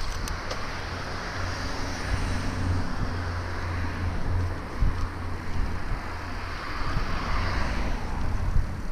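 City street ambience heard from a moving bicycle: a steady low rumble of wind and road noise, with traffic noise that swells and eases off about seven seconds in.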